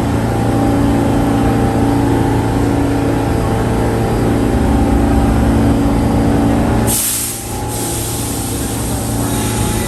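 Subway train in a station, its equipment humming steadily, then a sudden hiss of released air from the brakes about seven seconds in.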